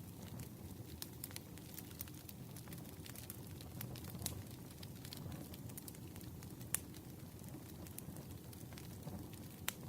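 Wood campfire burning and crackling: irregular sharp pops and snaps, the loudest about four, six and a half and nearly ten seconds in, over a low steady rumble of the flames.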